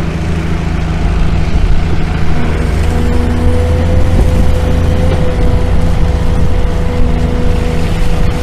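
Long-arm excavator's diesel engine running steadily under work, with a steady higher hydraulic whine that joins about two seconds in.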